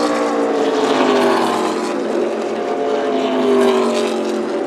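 A pack of NASCAR stock cars' V8 engines passing by, several engine notes overlapping and each falling in pitch as the cars go past.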